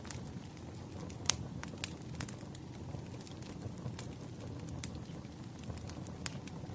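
Wood fire burning, crackling with irregular sharp pops over a low steady rumble of the flames; the loudest pop comes about a second in.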